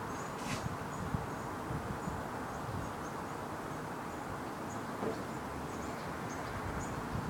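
Garden ambience: a steady low background noise with faint, short high chirps scattered through it.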